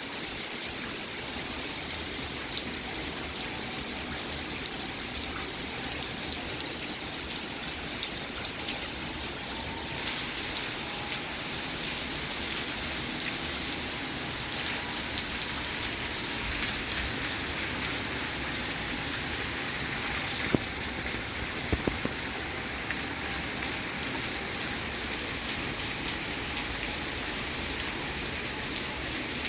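Steady rain falling, with scattered sharp drop ticks on a surface and a few louder ticks a little past the middle.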